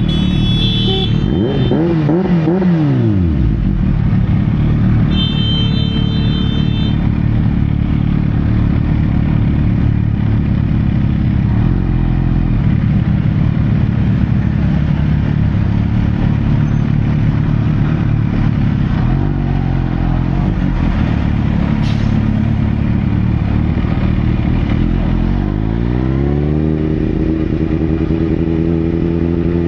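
Sportbike engine running steadily, with its pitch dropping about two seconds in and climbing again near the end as the revs rise.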